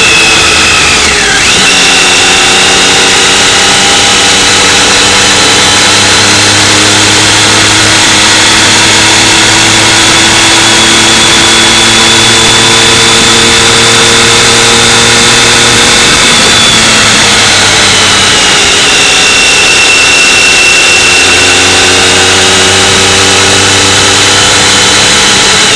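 Motorcycle engine heard from on board while riding. Its note drops briefly about a second in, then climbs slowly for over ten seconds, falls away about two-thirds of the way through, and climbs again near the end, over a constant rush of noise.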